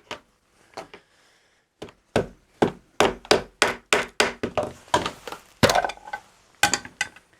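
A dozen or more sharp, irregular knocks and cracks, starting about two seconds in, as the 4:1 balun enclosure is knocked and worked open; its inside is filled with water frozen to a block of ice.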